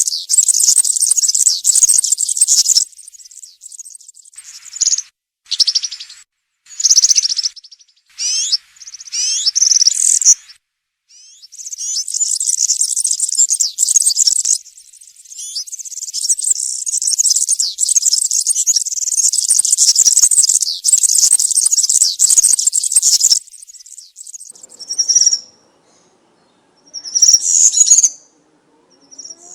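European serin (verdecillo) singing its wild song: a very high, fast, jingling twitter given in phrases. There are short bursts early on and a long unbroken run through the middle. Only a few brief notes come near the end.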